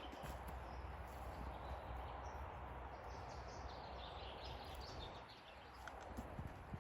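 Forest ambience: small birds chirping in short high bursts, most clearly in the second half, over a steady rushing background.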